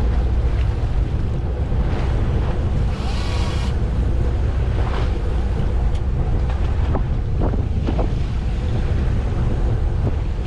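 Wind buffeting the microphone on a fishing boat at sea, a heavy low rumble with the wash of water. There is a short hiss about three seconds in and a few brief knocks in the second half.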